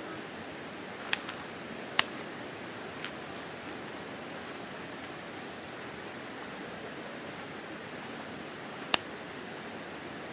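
Wood campfire burning with a steady hiss, broken by a few sharp crackles and pops of the burning wood, the loudest about two and nine seconds in.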